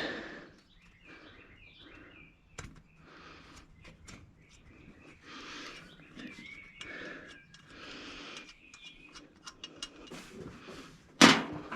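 Faint bird chirps repeating over quiet background noise, with scattered small clicks of tools on metal. Near the end comes a sudden loud clank.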